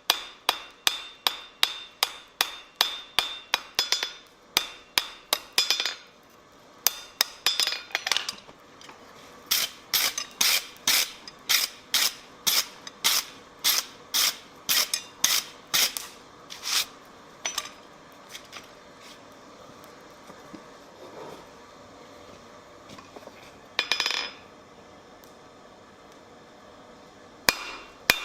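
Blacksmith's hammer forging hot iron on an anvil: a steady run of blows, about two to three a second, with a brief break about six seconds in. The blows thin out and stop partway through, with one short scraping noise before hammering resumes near the end.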